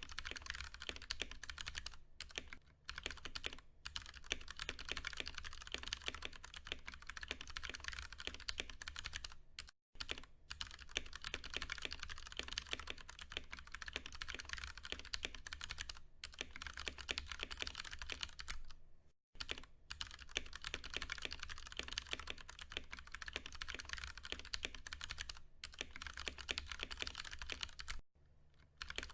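Steady, fast typing on a Ducky One 2 Mini mechanical keyboard with tactile Cherry MX Brown switches: a dense run of key presses, broken by short pauses every few seconds.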